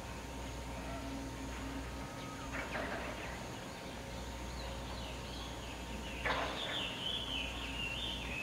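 A bird calling outdoors: a short call about three seconds in, then a louder, longer call that jumps up and down in pitch near the end, over a steady low hum.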